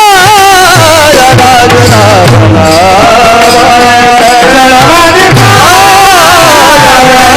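Devotional kirtan music: a voice singing in long, wavering held notes over a steady drum beat and sustained instrumental accompaniment.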